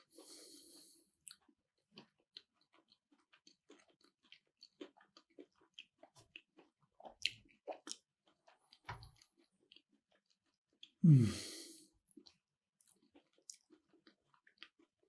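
Close-miked chewing of food, with many small wet mouth clicks. About 11 seconds in comes one loud vocal sound that falls in pitch, followed by a breath.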